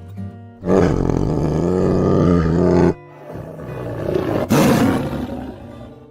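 A big cat roaring twice, over soft background music: one long wavering roar, then a second that starts abruptly and fades away.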